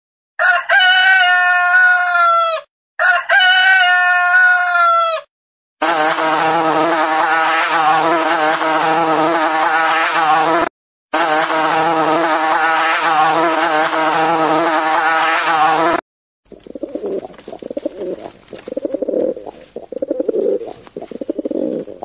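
A rooster crows twice, each crow about two seconds long. Then a bee buzzes steadily for about ten seconds, broken once by a brief gap. Near the end, pigeons coo in low, pulsing phrases.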